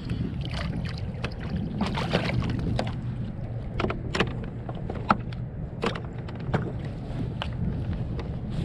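Water lapping and small knocks and clicks against a fishing kayak, scattered irregularly over a steady low rumble.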